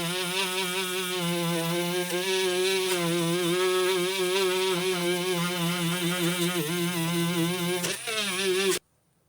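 Electric motor of a power tool running steadily, its pitch wavering slightly as the load changes, then cutting off abruptly near the end.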